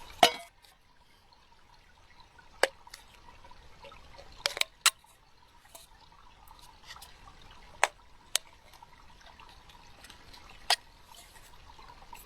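Water drops falling one at a time, about eight sharp ticks at irregular intervals, the loudest just after the start.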